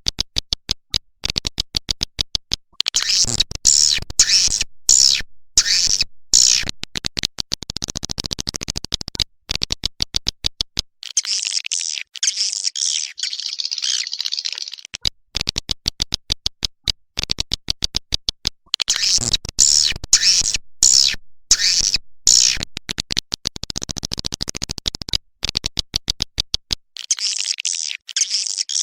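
Swiftlet lure-call playback of white-nest swiftlet calls: rapid trains of dry clicks alternating with high, dense twittering chirps. The sequence repeats about halfway through, as a looped calling track.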